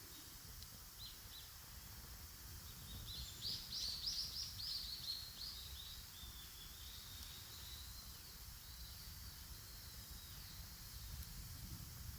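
A small bird sings one quick twittering phrase of rapid high notes about three seconds in, trailing off after a few seconds, with two short chirps just before it. A steady low rumble runs beneath.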